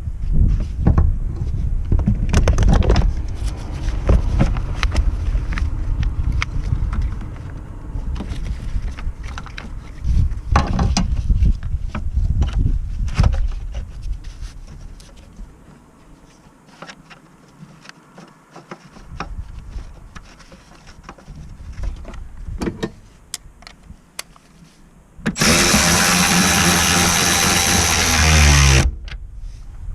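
Repeated knocks and clanks of metal tools and parts being handled. Near the end a power tool runs loudly for about three seconds and winds down as it stops.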